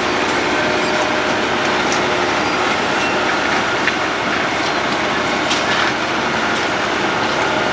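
Road planer (cold milling machine) at work, its engine running and its cutting drum milling the road surface, a loud steady grinding noise with scattered small clicks.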